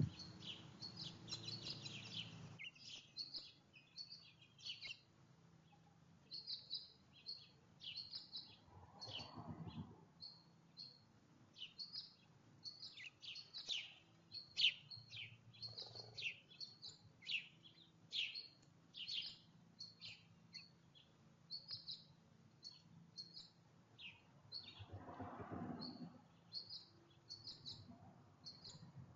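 Small songbirds chirping at a feeder: a steady stream of short, high chirps, several a second. Two brief lower noises cut in, about ten seconds in and again near the end.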